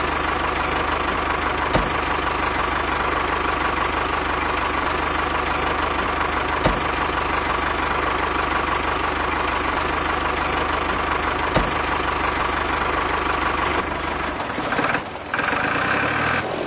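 Small engine of a homemade mini tractor running steadily, with a brief dip in level near the end.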